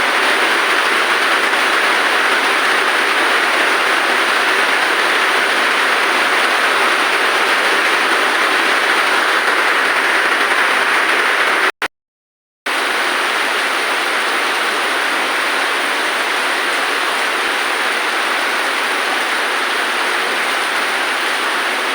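Steady hiss of heavy rain, with no rhythm. About twelve seconds in it cuts out completely for under a second, then resumes as before.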